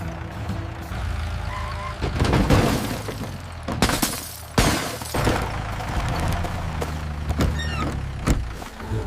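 Cartoon sound effects of a car crash: a low engine hum under a series of crashes, knocks and breaking sounds in the middle.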